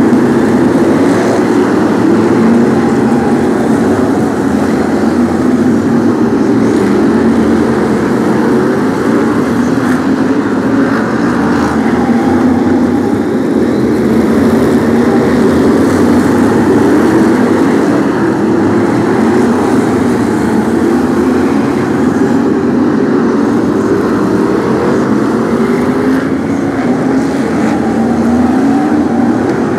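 A pack of BriSCA F1 stock cars racing, their V8 engines running hard, with several engine notes rising and falling over one another as the cars accelerate and ease off around the track.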